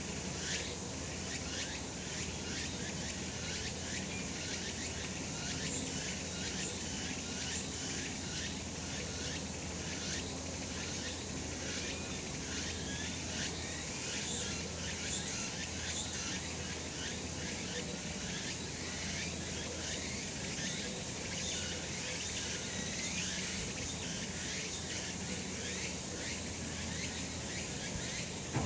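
Cicadas singing in a dense, unbroken chorus of rapid high-pitched pulsing, steady throughout.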